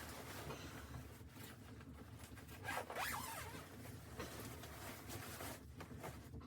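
A zipper being pulled among fabric rustling and gear handling, loudest about three seconds in.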